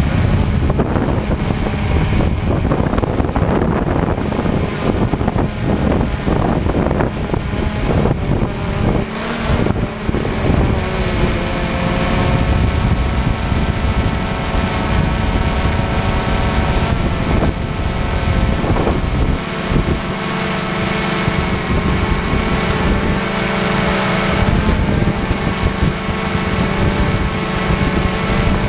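Tractor-pull tractor's engine running loud and hard under load, its pitch shifting a little about ten seconds in and then holding steady, with wind buffeting the microphone.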